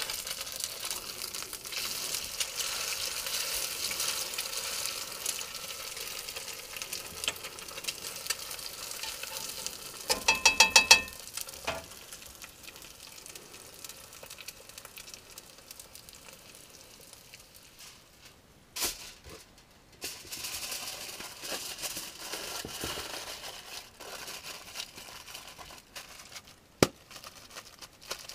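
Eggs with onions and jalapeños sizzling in a skillet on a gas stove, broken about ten seconds in by a quick, loud run of ringing metal clinks, the loudest sound. The sizzle then dies down, and aluminium foil crinkles as a burrito is wrapped, with a few sharp clicks.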